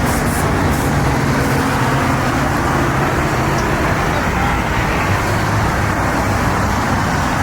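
A motor vehicle's engine running nearby: a steady low hum over a dense rumble, its pitch dropping slightly about halfway through.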